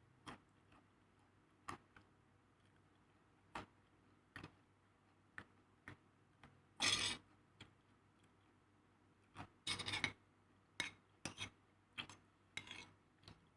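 Light clicks and taps of kitchen utensils and dishes being handled, about one a second, with a few short scraping rubs about seven and ten seconds in.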